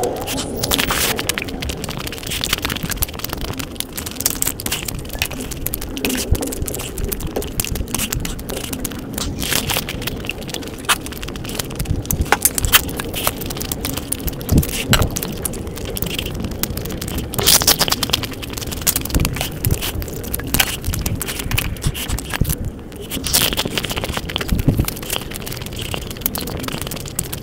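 Close-miked chewing of crisp Indian chaat: a sev-topped puri and a spiced sev and puffed-rice mix, giving a dense, irregular run of crunches and crackles.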